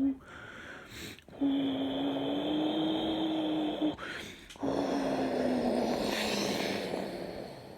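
British Airways Boeing 777-300 jet engines on landing approach: a steady whine over a broad rush, slowly falling in pitch as the airliner passes. The sound drops out briefly twice.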